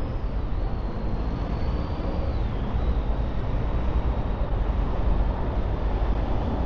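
Steady city traffic noise, a low rumble, with a faint high whine that drops in pitch a little over two seconds in.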